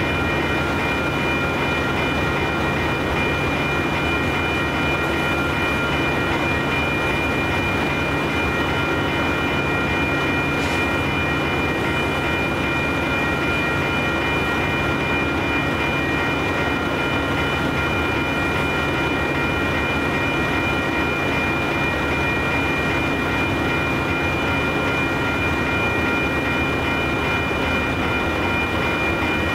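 Freight train cars rolling past: a steady rumble of wheels on rail, with several steady high-pitched tones ringing over it.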